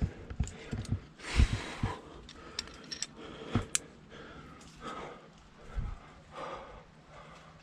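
Rock climber at work in a chimney: breathing hard in soft breaths, with a few sharp metallic clinks of climbing gear and scattered dull knocks of body and gear against rock.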